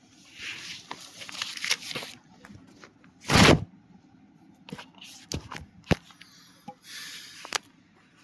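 Rustling and handling noise with several sharp clicks, and one loud burst of noise about three and a half seconds in.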